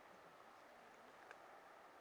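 Near silence: a faint steady hiss, with one small tick a little past a second in.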